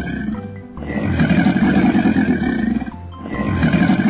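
Animal roar sound effect for a cartoon crocodile: long, deep, rasping growls of about two seconds each, repeating with short breaks about a second in and near three seconds in, over background music.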